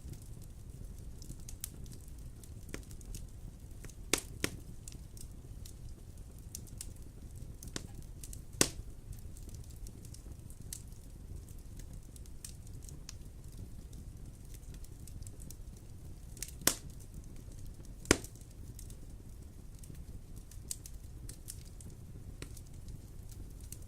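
Wood fire burning in a fireplace, crackling with irregular sharp snaps and pops over a low steady rumble of flame, a few pops much louder than the rest.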